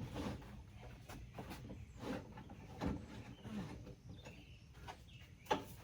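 Scattered knocks and clunks of objects being handled and set down, the sharpest about five and a half seconds in.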